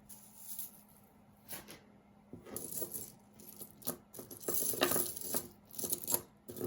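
Costume jewelry clinking and rattling as pieces are handled and pulled out of a tangled pile: quiet for the first couple of seconds, then a run of small clicks and jingles from about two and a half seconds in.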